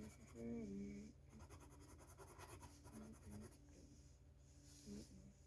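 Coloured pencil shading on paper: faint, steady scratching strokes. A brief voice sound, such as a murmur or hum, comes about half a second in.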